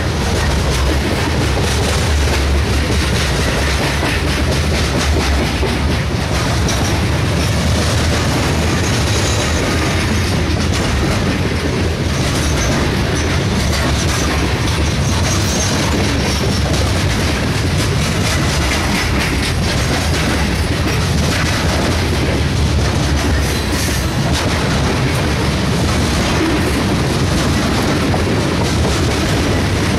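Loaded covered hopper cars of a heavy grain train rolling past close by: a steady, loud rumble of steel wheels on rail, with a constant run of wheel clicks.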